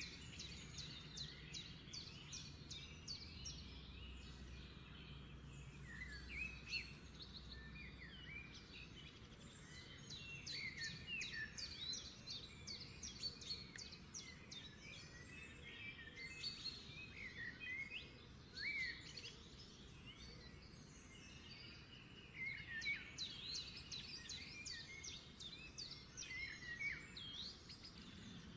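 Small birds chirping throughout: many short, quick chirps and little rising and falling calls, over a faint low hum.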